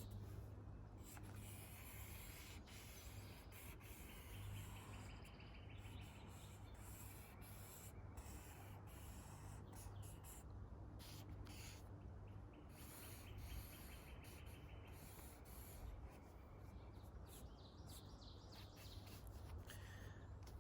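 Near silence: faint outdoor ambience with a low steady hum and faint bird calls.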